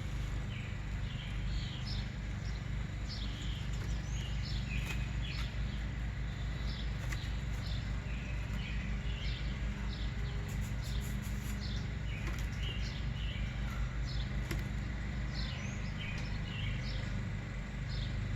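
Small birds chirping, many short high chirps a few times a second, over a steady low rumble.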